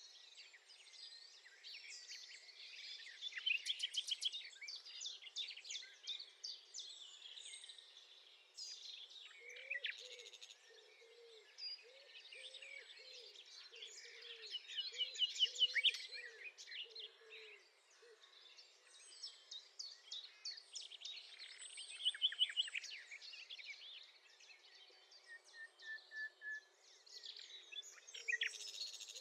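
Common nightingale singing in phrases of fast repeated notes and trills, with short pauses between phrases and one brief pure whistle near the end. A run of lower, softer repeated notes sounds underneath through the middle.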